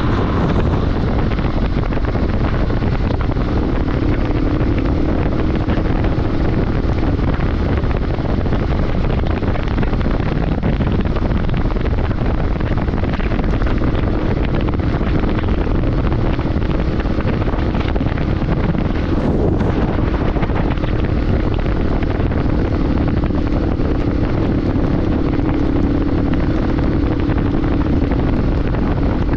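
Wind rushing over the microphone of a moving motorcycle, loud and steady, with a faint steady engine hum underneath.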